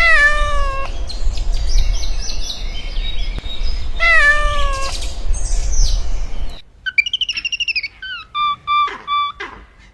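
A cat meows twice, two long meows that fall in pitch about four seconds apart, over a low rumble. After an abrupt cut, a small bird chirps in short, repeated high notes.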